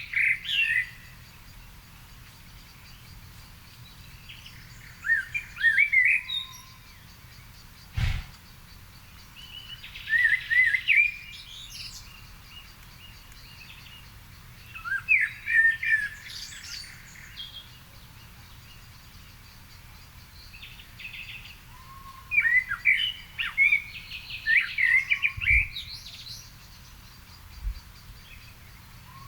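A songbird singing in short, warbling phrases of one to two seconds, repeated about every five seconds, with a steady low background. A single sharp click or knock about eight seconds in.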